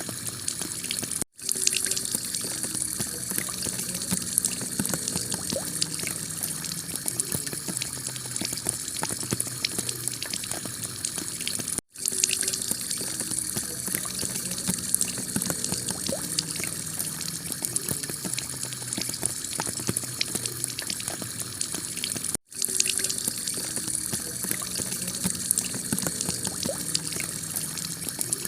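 Heavy rain pouring onto a clay-tiled roof: a dense, steady hiss full of fine patters and drips. It drops out for an instant three times, about ten seconds apart.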